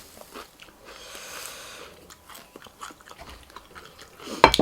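A person chewing and crunching food close to the microphone: many small crunches and mouth clicks, with one loud sharp click near the end.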